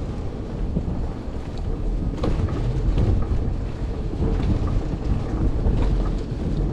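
Blizzard wind buffeting the microphone in a continuous low rumble, with a few faint clicks and knocks scattered through it.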